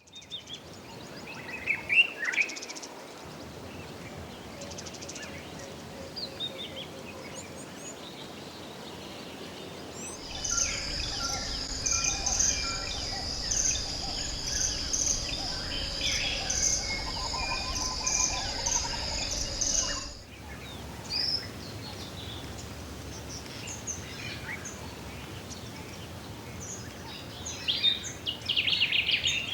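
Tropical forest soundscape: scattered bird chirps and calls over steady background noise. For about ten seconds in the middle a loud, high insect chorus with a steady trill and rhythmic pulses comes in and then cuts off abruptly.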